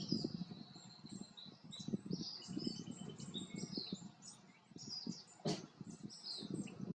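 Several small birds chirping and calling in quick, overlapping high notes, some sliding up or down in pitch, over an uneven low rumble. A single sharp click comes about five and a half seconds in.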